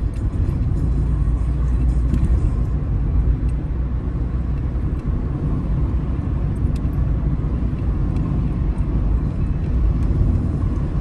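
A car being driven on the road, heard from the dashboard inside the cabin: a steady low rumble of tyres and engine.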